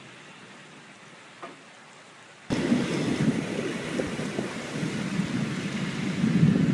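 A faint steady hiss of rain, then, from about two and a half seconds in, a sudden jump to heavy rain with low rolling rumbles of thunder.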